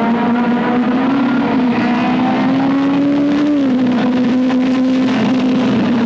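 Car engine running at steady revs; its pitch creeps up slightly, drops about three and a half seconds in, then holds.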